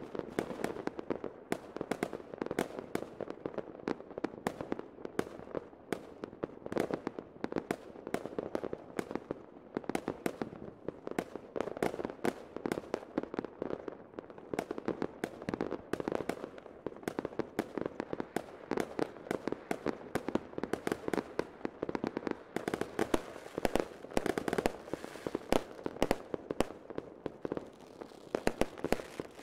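Many fireworks and firecrackers going off at once: a dense, unbroken run of cracks and pops, many each second. A thicker crackling spell comes about three quarters of the way through.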